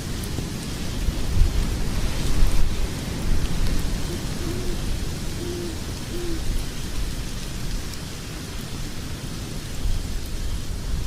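Wood logs burning in a fireplace: a steady low rumble of flames with scattered small crackles and pops. About four to six seconds in come three short, low hoot-like tones in quick succession.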